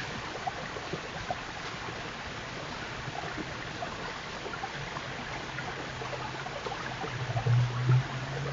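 Steady outdoor hiss with faint scattered small clicks. A low steady hum comes in about halfway through and swells near the end.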